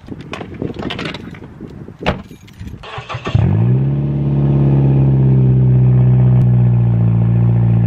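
Mazda3 sedan engine starting: a few clicks and a knock, a brief crank about three seconds in, then the engine catches with a quick rise in pitch and settles into a steady idle, heard from behind the car at the exhaust.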